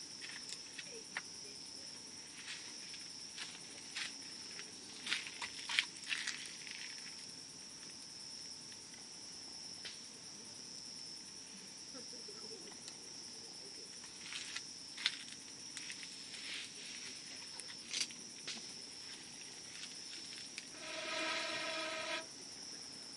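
Wood campfire crackling, with scattered sharp pops and snaps that cluster about five to six seconds in, over a steady high-pitched insect trill. Near the end a steady pitched tone sounds for about a second and a half.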